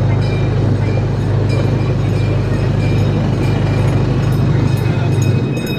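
Cincinnati Zoo train running along its track: a steady low drone with light, regular clicking, easing off slightly near the end.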